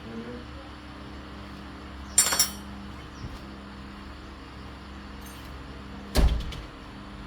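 Metal tools and pump parts knocking together: a bright ringing clink about two seconds in, then a heavier clank with a low thud near the end, over a steady low hum.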